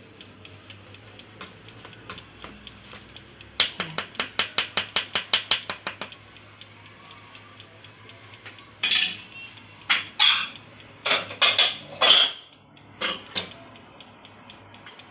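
A spoon pressing and scraping stock solids, vegetables and shrimp shells, through a kitchen strainer, with a quick run of tapping clicks, then several louder scrapes and knocks of utensil on strainer and pot.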